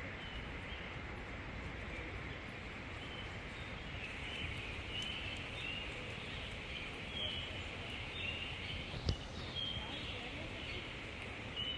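Steady rush of waterfall water with small birds chirping briefly every second or two over it, and a single sharp knock about nine seconds in.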